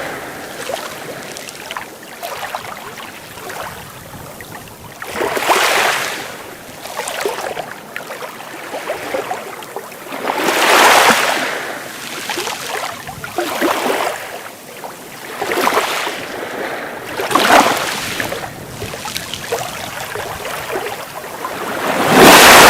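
Sea waves washing onto the shore, breaking one after another every few seconds over a steady hiss of water. The loudest break comes near the end.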